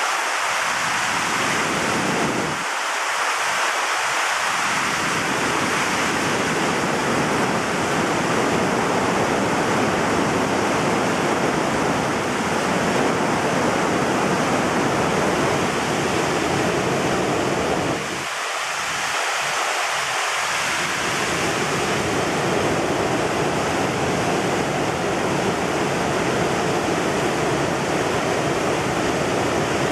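Mountain stream in flood, swollen by heavy rain, rushing loudly over rocks as a steady roar of white water. The deep low rumble drops away briefly twice.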